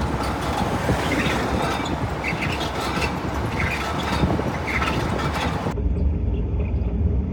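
Car driving, with rough road and tyre noise. About three-quarters of the way in it changes abruptly to a steady low hum, the kind of humming or growling drone a failing wheel bearing makes at road speed.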